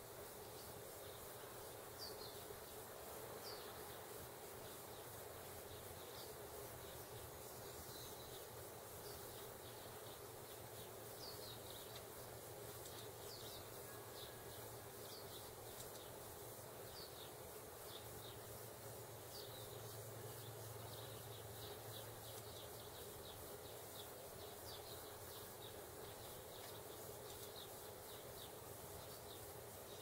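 Faint, short, high chirps from small birds, each falling slightly in pitch, coming irregularly and sometimes in quick runs over a steady background hiss.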